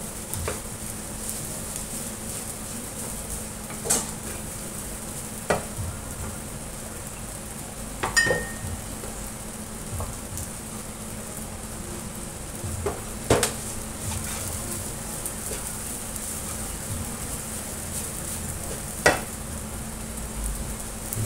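Fried rice sizzling steadily in a hot pan, with sharp knocks of a spatula against the pan every few seconds. One strike about eight seconds in gives a short metallic ring.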